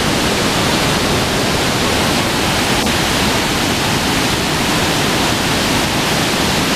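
Large waterfalls at Iguazú Falls, a steady, loud rushing of falling water.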